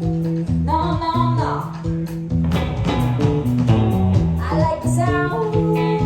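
Live rock band playing: drums, guitars and bass, with short sung phrases about a second in and again near the end.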